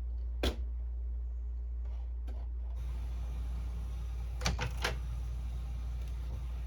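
Clicks and knocks from a Canon Pixma inkjet printer being handled: one sharp click about half a second in and a quick pair of clicks around four and a half seconds. A faint steady running noise from the machine starts about three seconds in, over a constant low hum.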